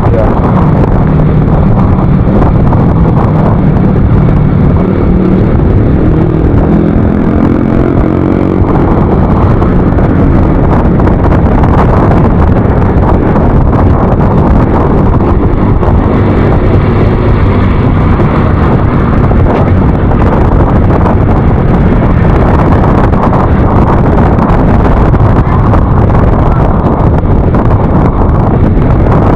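Yamaha NMAX Turbo scooter engine running under way, with wind buffeting the microphone. The engine's pitch climbs about five seconds in.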